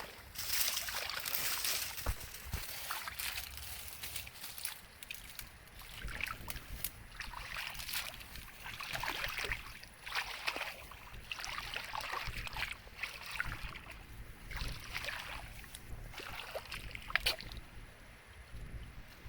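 Water sloshing and splashing in irregular surges, with scattered sharp clicks.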